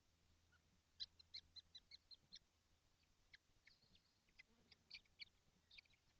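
Kestrels in a nest box giving short, soft, high-pitched calls: a quick run of them about a second in, then scattered single calls, over a faint low hum.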